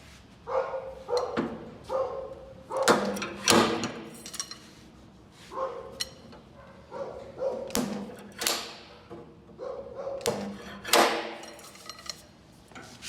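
A dog barking repeatedly, in irregular single barks and short runs, about fifteen in all.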